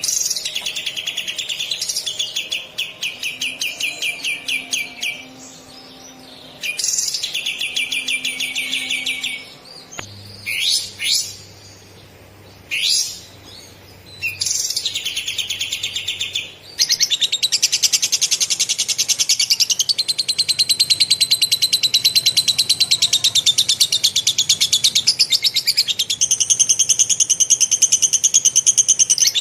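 Kapas tembak songbird singing lovebird-style material: fast, tightly spaced trills in bursts of a few seconds. About 10 to 13 s in come a few short sweeping notes, and from about 17 s in one long unbroken rolling trill.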